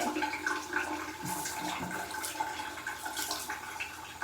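Shower water running and splashing, a steady hiss of spray.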